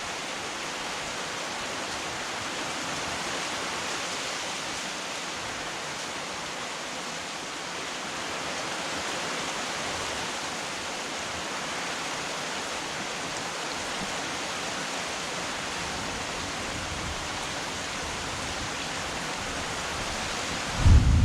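Heavy rain falling with a steady, even hiss. Just before the end, a sudden loud, deep clap of thunder breaks in.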